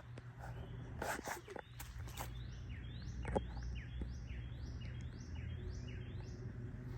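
A bird calling: a repeated series of about nine short, high chirps, roughly two a second, with a few soft knocks.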